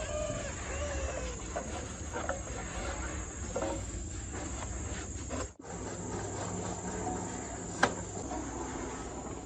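Steady high-pitched insect chirring over a low hum, broken by a brief dropout a little past halfway, with one sharp click near the end.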